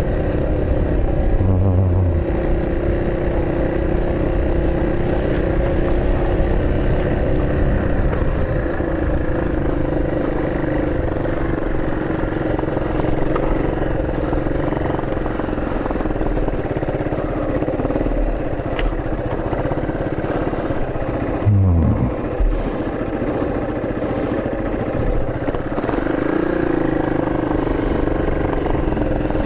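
A vehicle's engine running steadily while travelling, with a brief thump about two-thirds of the way through.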